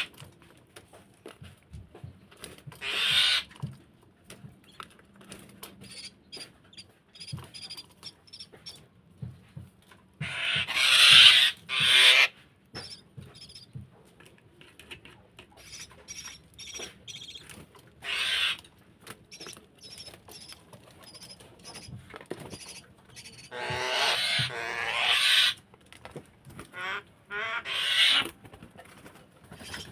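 Javan myna nestling giving harsh, hissing begging calls in bursts of a second or two, repeated several times, with faint high peeps and small taps between the bursts.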